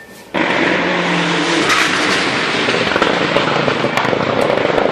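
Rally car engine running hard at high revs, loud and dense, with scattered sharp cracks. It starts abruptly about a third of a second in.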